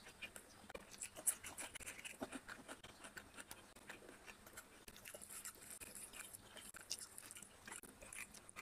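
Close-miked chewing and mouth sounds of a person eating a meal of rice and curry by hand: a faint, steady run of small clicks and smacks.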